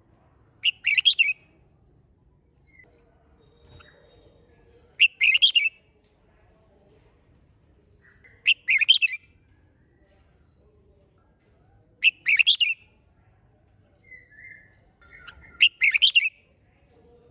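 Red-whiskered bulbul singing: five short, quick warbled phrases, each about half a second long, repeated every three to four seconds, with a few faint softer notes between them.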